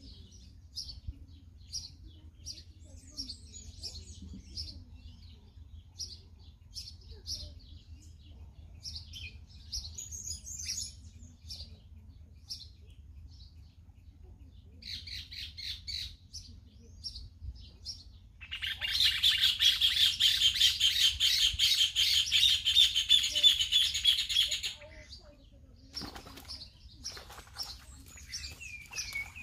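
Small birds chirping here and there in short high calls. About two-thirds of the way through comes a loud, fast rattling chatter lasting about six seconds. Near the end there is a short falling run of notes.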